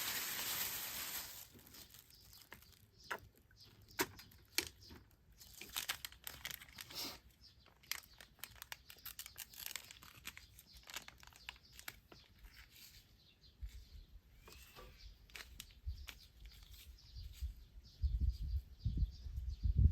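A hiss that stops about a second in, then scattered rustling and clicking of things being handled, with a faint bird chirp and a few low thumps near the end.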